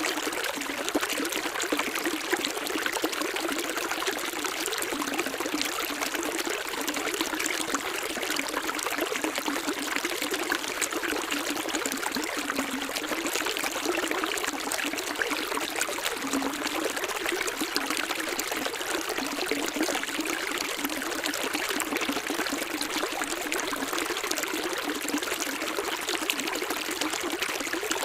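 Running water splashing and trickling steadily, a bright rushing hiss with little low rumble.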